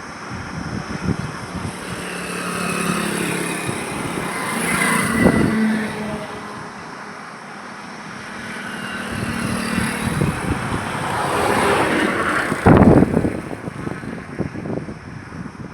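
Highway traffic with engines and tyre noise swelling and fading as vehicles pass: one passes about five seconds in and a louder one about thirteen seconds in.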